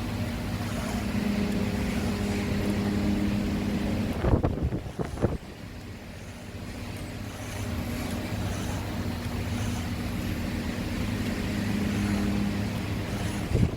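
A motor-driven woodworking power tool running steadily with an even hum. About four seconds in it cuts out amid a few sharp knocks, then runs back up and carries on. More knocks come near the end.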